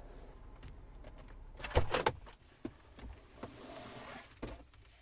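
Clicks and knocks of someone getting out of a parked car: a cluster of sharp clicks about two seconds in, with a few lighter knocks later, over a faint steady background.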